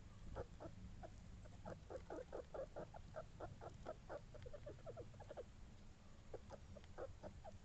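A faint, fast series of short clucking calls from a small animal, several a second, thinning out near the end.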